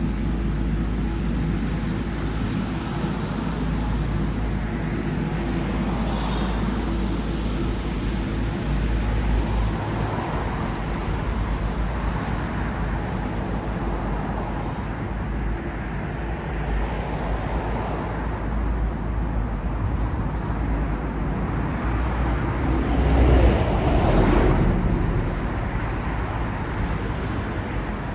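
City street traffic: a steady rumble of road vehicles and engines, with one vehicle passing close and louder about three-quarters of the way through.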